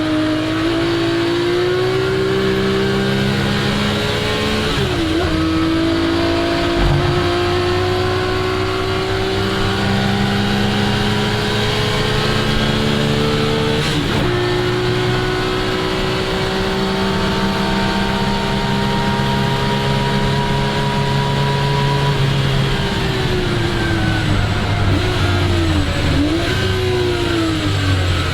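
1961 Ferrari 250 GT SWB's Colombo V12 engine under hard acceleration, its pitch climbing steadily through the gears with quick upshifts about five and fourteen seconds in. Near the end the pitch falls as the car slows, with short throttle blips on the downshifts.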